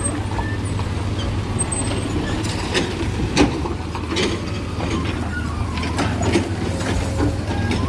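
Heavy diesel engine running steadily with a low hum, with scattered sharp metallic clanks and knocks, the loudest about halfway through.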